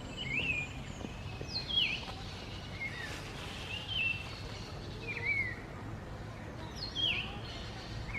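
A wild songbird calling repeatedly: short whistled notes, each swooping sharply down in pitch, about six in all at roughly one-second intervals, over a steady low background noise.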